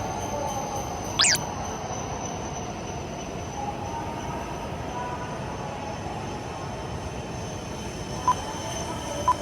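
Coupled Yamagata Shinkansen Tsubasa and Tohoku Shinkansen Yamabiko trainset running along the line with a steady rumble. There is a brief sharp high squeal about a second in. Near the end come two short beeps, a second apart.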